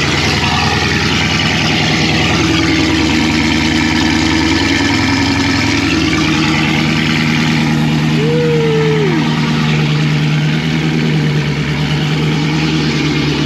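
Dodge Scat Pack's 392 (6.4-litre) HEMI V8, running on E85, at a steady fast idle just after a cold start. It sounds almost calm, and it runs inside a garage.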